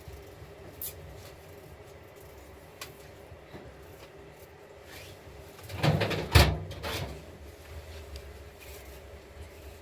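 A few faint clicks, then a short cluster of knocks and bumps about six seconds in, like household objects or a cupboard door being handled.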